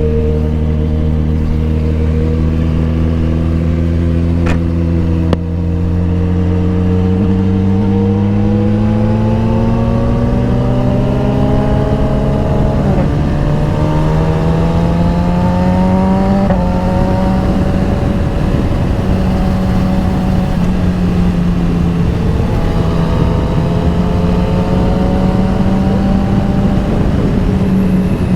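Motorcycle engine running under load, its pitch climbing slowly for about ten seconds as it pulls, then holding steady at speed.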